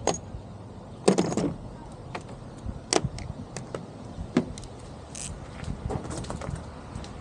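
Irregular clinks and knocks of hand tools and car parts being handled during under-car work, the loudest a short clatter about a second in, with a brief hiss about five seconds in.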